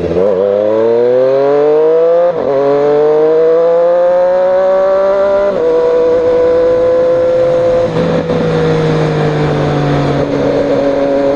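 Triumph Street Triple 765 RS inline three-cylinder engine, breathing through an Austin Racing de-cat slip-on exhaust, pulling hard through the gears. The revs climb, drop at a shift about two seconds in, climb again to a second shift a little past halfway, then hold steady and ease off slightly.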